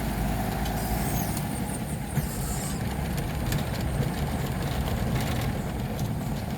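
A vehicle engine running steadily, giving a continuous low rumble.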